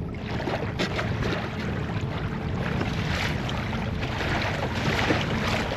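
Wind buffeting the microphone over water splashing and lapping against a kayak's hull: a constant rushing noise dotted with many small splashes.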